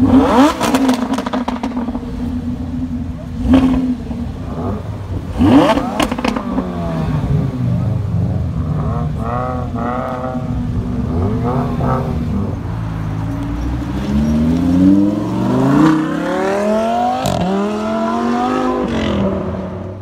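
Lamborghini Huracán's V10 engine blipped in sharp revs with crackles in the first six seconds, then running steadily. Over the last several seconds it accelerates away, revs climbing, dropping briefly at an upshift about seventeen seconds in.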